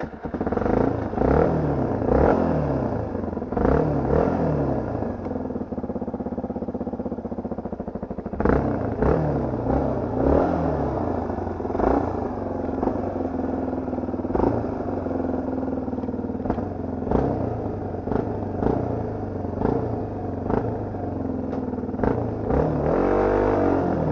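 Dirt bike engine revving up and dropping back again and again as it is ridden hard, with scattered knocks and clatter.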